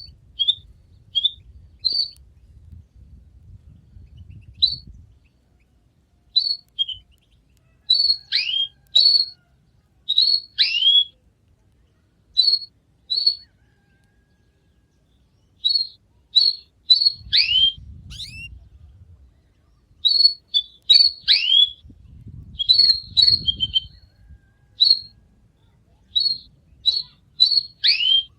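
Canary chirping: short high chirps, singly and in quick runs of two to four, some sliding down in a falling whistle, with pauses between the runs.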